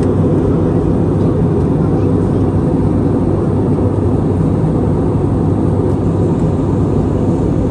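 Steady engine and airflow noise of an Airbus A320neo airliner heard from inside the passenger cabin: a loud, even low rumble with a faint hum.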